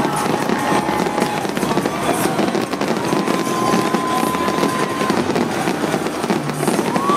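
Fireworks fountains spraying sparks at close range: a dense, continuous crackling and popping, with a thin steady tone held for about two seconds midway.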